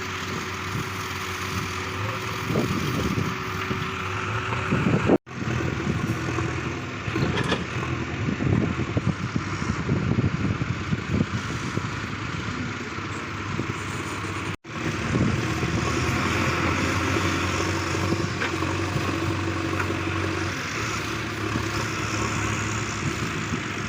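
Heavy vehicle engine working, its level rising and falling, with some clatter mixed in, during the recovery of a stuck truck by a JCB. The sound cuts out abruptly twice.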